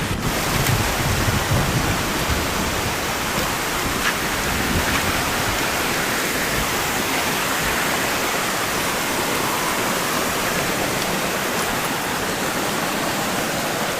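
Steady rushing of water falling at a waterfall.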